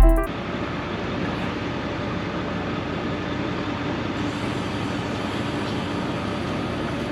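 A vehicle running steadily, an even rumble with a faint low hum, just after a short loud burst of edited sound effects cuts off at the start.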